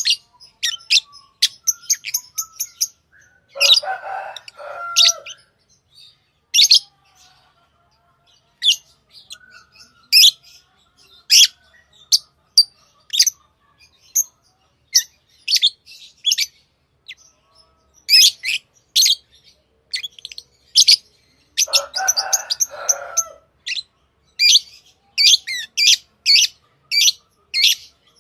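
Pet lovebirds chirping: a steady run of short, sharp, high-pitched chirps, broken twice, about four seconds in and again after about twenty-two seconds, by a brief lower, harsher chattering call.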